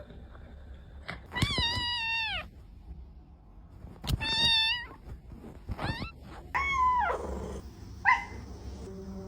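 Domestic cat meowing about five times, some calls long and drawn out, one sliding down in pitch.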